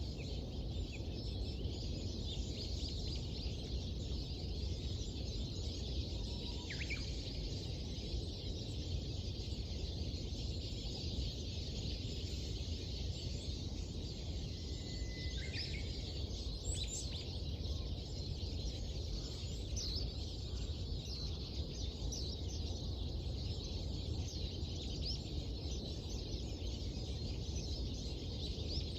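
Small birds chirping and twittering at dawn over a steady low background rumble, with a couple of clearer whistled notes about a quarter and halfway through.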